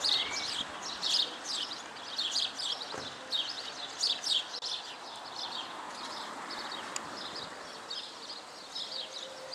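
Small birds chirping, many short high calls in quick succession, over a faint steady background noise.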